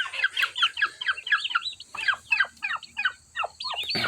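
Turkey poults peeping: a rapid run of high calls, each one falling in pitch, several a second, from chicks that have scattered away from the hen.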